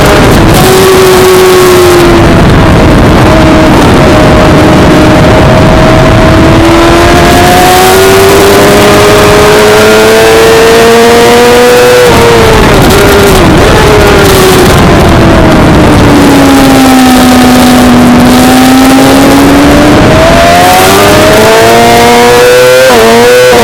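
Suzuki GSX-R600 inline-four engine at racing speed over a loud rush of wind noise: the revs fall, climb steadily, drop suddenly about halfway, sink low and then climb again, with a quick series of jumps in pitch near the end, like gear changes.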